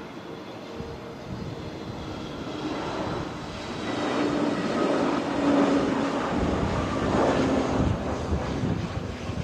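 Jet airliner engines, a steady roar that grows louder from about four seconds in.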